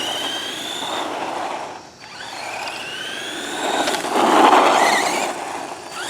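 Redcat Volcano EPX RC truck's brushed electric motor and drivetrain whining as it accelerates on a 2S LiPo battery, the whine rising in pitch, easing off about two seconds in, then rising again. A louder rush of noise comes around four to five seconds in.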